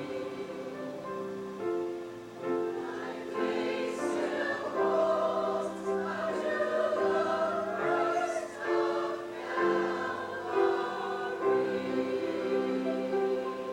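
A choir singing in harmony, holding long chords that change every second or so.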